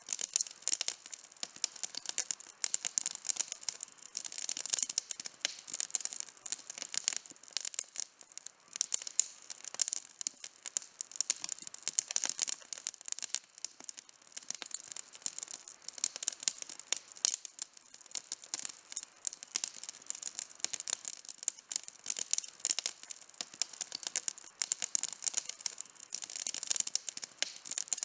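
Outdoor wood campfire crackling: a dense, continuous stream of small pops and snaps, bright and high-pitched with hardly any low rumble, and a few louder pops standing out.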